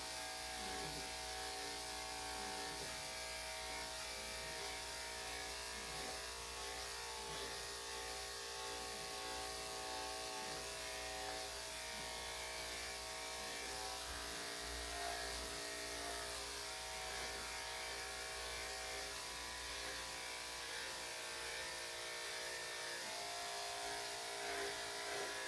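Electric dog grooming clippers fitted with a #3 3/4 blade running with a steady hum, rising slightly in loudness about once a second.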